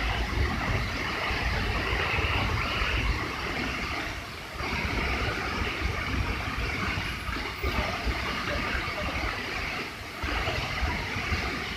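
Rushing water of the flooded, overflowing Lembah Anai waterfall: a steady rush of water noise with a low rumble underneath.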